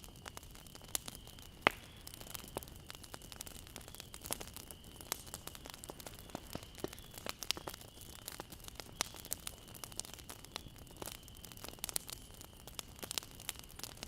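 Campfire burning: wood crackling with many irregular sharp pops over a low hiss, one louder pop just under two seconds in.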